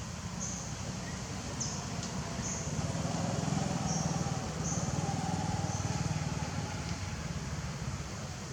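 A motor vehicle engine runs nearby with a low, pulsing rumble that grows louder in the middle and then eases off, as if passing. Short high chirps sound every second or so over it.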